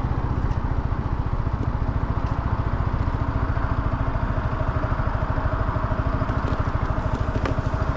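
Yamaha R125's single-cylinder four-stroke engine idling with a steady, even putter.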